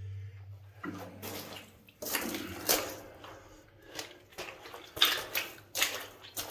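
Water splashing and sloshing in short, irregular bursts, about eight of them, as someone moves in shallow water in a mine tunnel.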